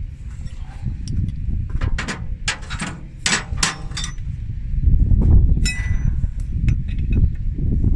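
Metal tools and hydraulic fittings clinking and tapping sharply, several strikes close together about two to four seconds in and lighter ticks later, over a steady low rumble that gets louder near the middle.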